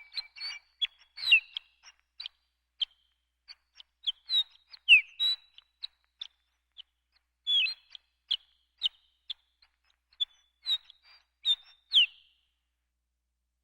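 Horned lark giving a loose series of short, high tinkling notes and chirps, some sliding down in pitch, that stop about twelve seconds in.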